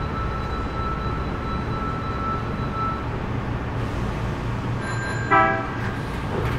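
Hankyu 3300 series electric train running, a steady rumble of wheels and running gear, with a thin whine that stops about three seconds in. A short pitched tone sounds about five seconds in.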